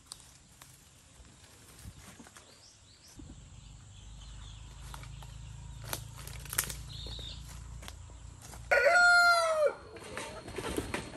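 An animal's call: one loud, pitched call about a second long, starting near the end, held steady and then dropping in pitch at the end. A low hum and a few faint clicks come before it.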